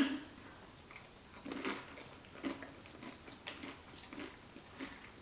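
Tortilla chips loaded with hot crab dip being bitten and chewed close to the microphone: soft, irregular crunches spaced out over several seconds.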